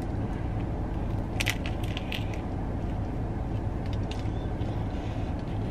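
Close-up chewing of a seeded sub sandwich roll: a few crisp crunches and mouth sounds, twice early and a cluster later, over a steady low hum.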